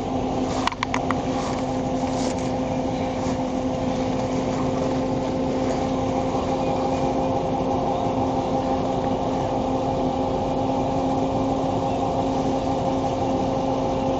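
Steady running noise inside a police patrol car, with an even hum and a few short clicks about half a second to a second in.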